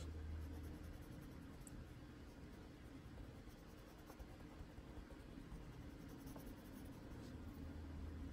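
Faint scratching of a Prismacolor colored pencil, the Indigo Blue, shading on paper. A low hum is there for the first second and comes back near the end.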